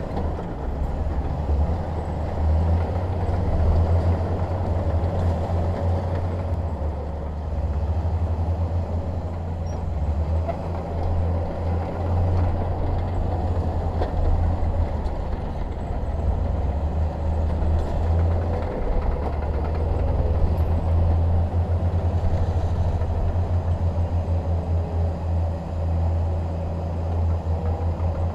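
Bulldozer's diesel engine running with a deep, steady throb that swells and eases a little as it works.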